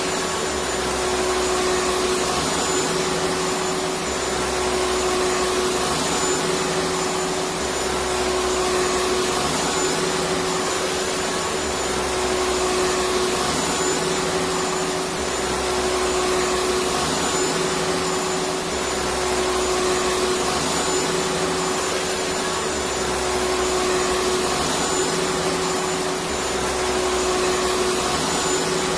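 Electric vacuum cleaner motor running continuously: a steady whoosh of air with a constant high whine. Underneath, a low hum swells and fades about every four seconds.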